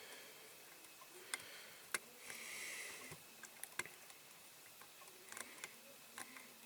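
Scattered small clicks and taps of a diecast toy van and small tools being handled on a workbench, with a short soft hiss about two and a half seconds in.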